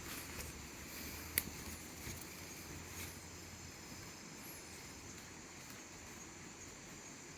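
Forest ambience: a steady high-pitched insect drone with a sharp click about a second and a half in.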